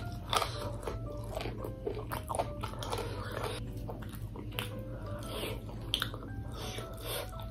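Close-up chewing and biting on chicken pieces eaten by hand: many short wet clicks and crunches of the mouth. Faint background music with short held notes plays underneath.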